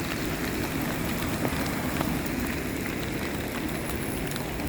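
Steady hiss of rain falling, blended with rushing floodwater, with a few light ticks of drops.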